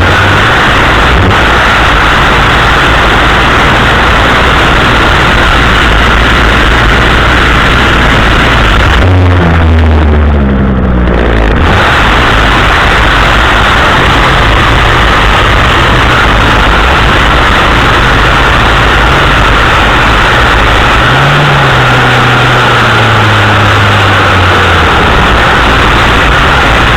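Chainsaw on a pole extension running loud and steady. About ten seconds in, the engine note dips and falls away briefly before it picks up again.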